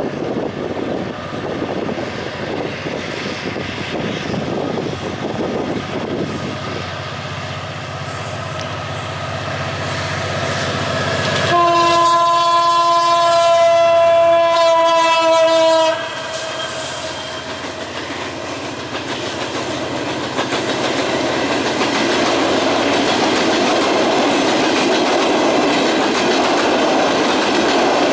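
GT22 diesel-electric locomotive approaching with its engine running, then one long blast of its multi-tone air horn about a third of the way in, lasting some four seconds. After the horn, the long train of coaches rolls past with a steady clickety-clack of wheels on rail that grows louder near the end.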